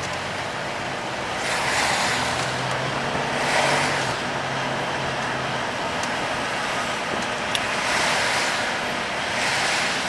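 Road and tyre noise inside a moving car, with a low engine hum in the first half and several swells of louder hiss lasting a second or two. There is one faint tick past the middle.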